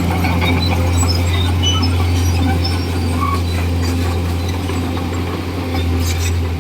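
Komatsu D41E bulldozer's diesel engine running steadily under work, with scattered short high squeaks and clicks from the machine over it.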